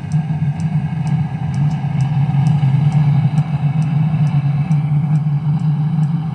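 Land Rover engine, freshly back from a cylinder block repair, running steadily with a low drone and a light tick about three times a second.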